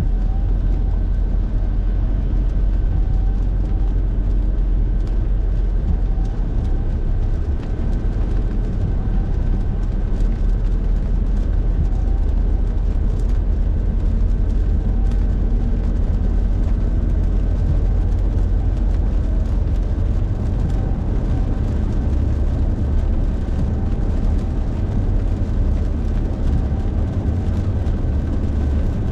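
A car driving along at steady speed, its road and engine noise heard from inside the cabin as a steady low rumble, with a faint steady whine above it.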